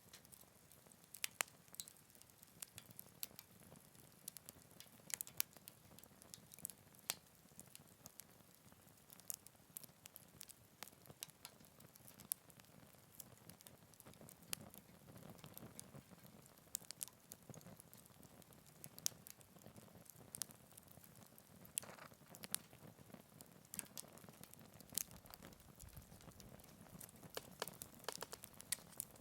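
Wood fire burning in a Picogrill 398 folding fire pit: quiet, irregular crackles and sharp pops over a soft, low hiss of the flames.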